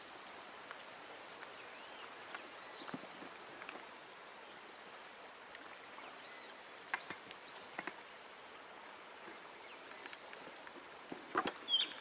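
Outdoor ambience of dry scrub: a faint steady hiss with a few short, high bird chirps scattered through it. Sharp clicks come here and there and bunch together near the end.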